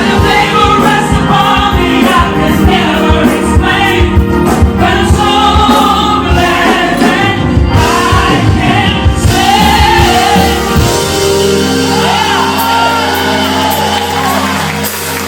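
Live gospel music: a group of singers over a band with drums. About two-thirds of the way through the drums drop out, leaving held chords under the voices.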